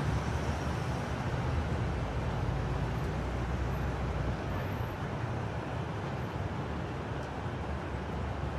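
Steady vehicle and road noise: a low engine rumble under an even hiss, with no distinct impacts.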